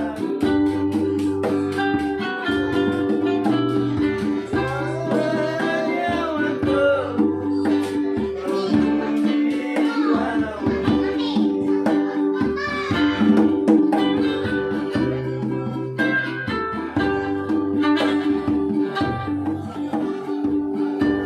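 Papuan acoustic string-band music: strummed guitar and ukulele with a plucked bass line keeping a steady beat, and a sung or played melody gliding over it in the middle stretch.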